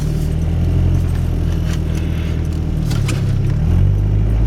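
1991 Chevy S10's 2.5-litre four-cylinder engine running under throttle in drive while the wheels slip in deep snow and the truck fails to pull out. The engine note is steady and shifts slightly in pitch about three and a half seconds in.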